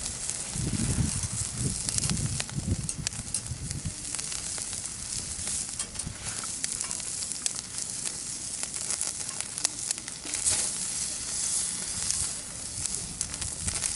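Food sizzling on a grill over a wood fire, with frequent sharp crackles and pops. Some low rumbling in the first few seconds.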